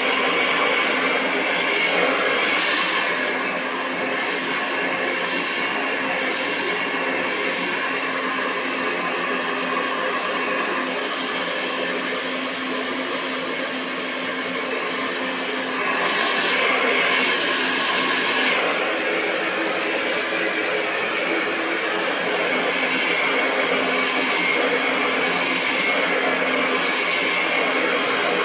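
Hair dryer running continuously: a steady rush of air over the motor's whine. The loudness eases a little for a stretch, then rises again a little past halfway.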